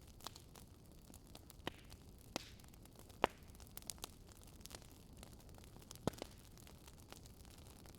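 Wood fire crackling: irregular sharp pops over a low, steady hiss, the loudest pop a little over three seconds in and another strong one about six seconds in.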